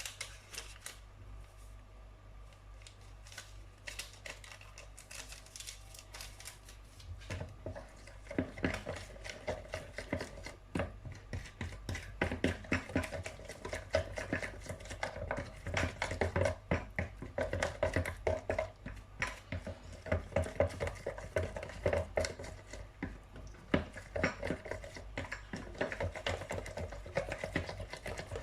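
A utensil clinking and scraping against a mixing bowl as cake batter is mixed by hand. It is light at first, then becomes faster and louder about seven seconds in.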